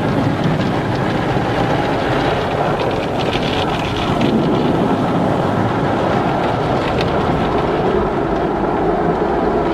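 Automatic car wash running: a steady, loud rush of water spray and machinery, with a few faint ticks.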